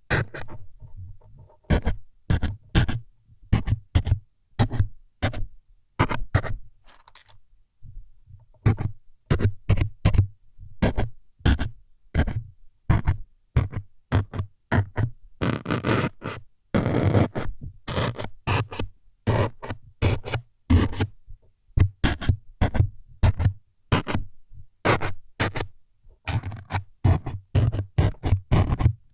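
ASMR needle-stabbing sound effects: quick scraping jabs, one or two a second, each with a dull low thud, and a longer run of continuous scraping about halfway through.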